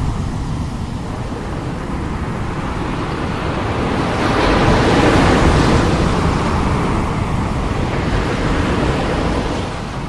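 Strong sea waves breaking and washing onto the shore, one swelling surge about halfway through, with wind buffeting the microphone.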